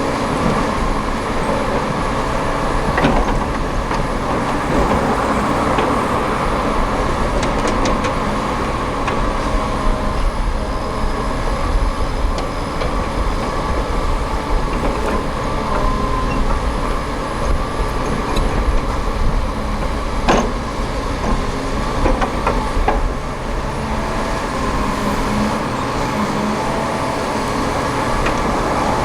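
Diesel engines of heavy earthmoving machinery running steadily under load, with a few sharp metallic clanks. The loudest clank comes about two-thirds of the way in.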